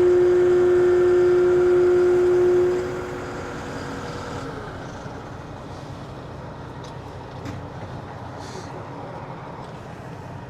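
A loud, steady, horn-like tone from heavy loading equipment for about three seconds over a running engine. It cuts off, and the engine and machinery carry on more quietly.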